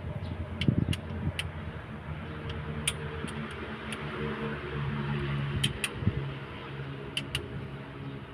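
A motor engine running steadily, its hum swelling for a couple of seconds midway, with scattered sharp clicks over it.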